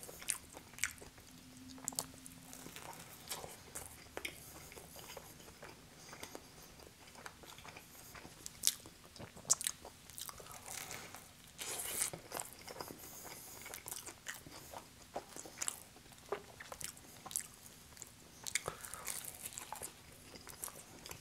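Close-miked chewing of pizza and its crust: irregular crunches and wet mouth clicks, with a few louder bites.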